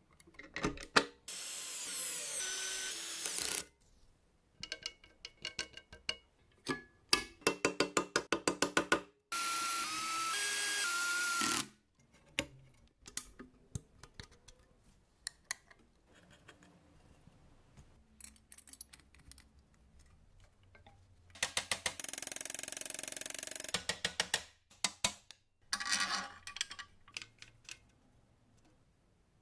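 A power tool running in short bursts of two to three seconds, with a steady whine, interleaved with rapid runs of sharp clicks and rattles.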